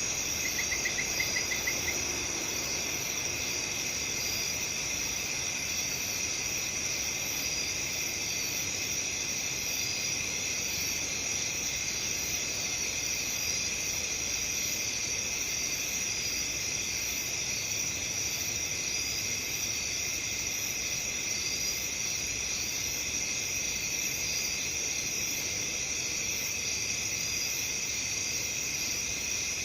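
A steady chorus of crickets chirping in several overlapping pitches, with a short fast trill at the very start.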